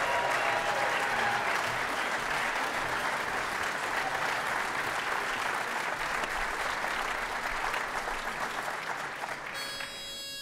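Audience applauding steadily, the clapping thinning out near the end as a short, steady pitched note sounds.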